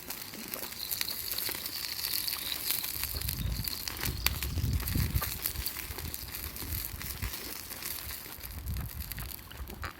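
Campfire crackling: a dense run of small pops and snaps, with low rumbles a few seconds in and again near the end.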